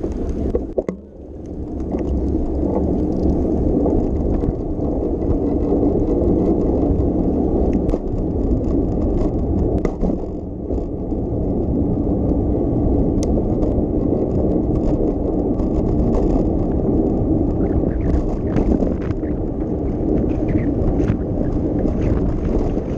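Steady low rumble of a bicycle riding along a street: tyre and road noise mixed with wind on the microphone, swelling about two seconds in as the bike gets going, with a few faint ticks.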